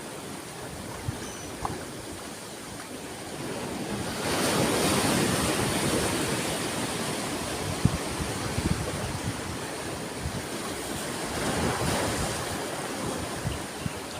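Ocean waves washing on a shore: a steady rush of surf that swells into a louder surge about four seconds in and again near the end.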